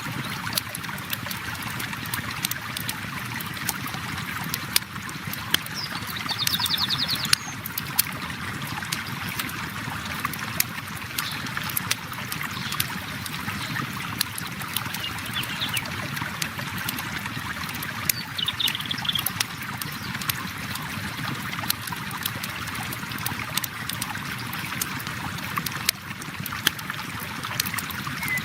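River water flowing steadily, mixed with a wood campfire crackling in small sharp pops throughout. A short high-pitched trill comes in about six seconds in, and again faintly near eighteen seconds.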